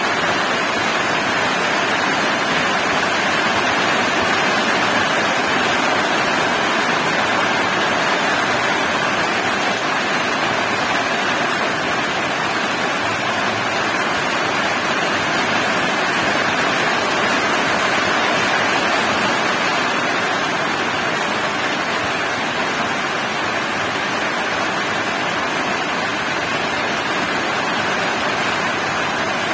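Heavy rain falling steadily, a constant, even rush of water.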